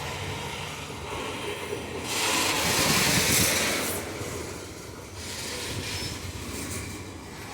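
Loaded iron-ore freight wagons rolling past at low speed, wheels running on the rails. A low diesel locomotive hum fades in the first second. A louder hiss of wheel and rail noise swells from about two to four seconds in.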